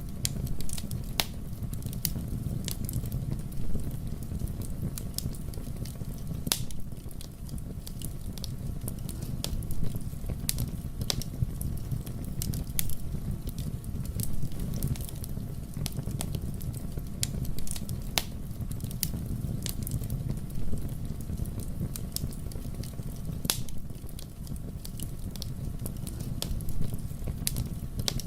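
Wood fire burning in a fireplace: a steady low rumble of flames with irregular sharp crackles and pops all through.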